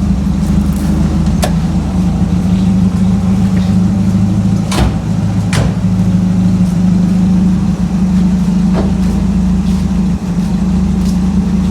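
Car engine running steadily with a constant low hum, with a few sharp clicks, two of them close together about five seconds in.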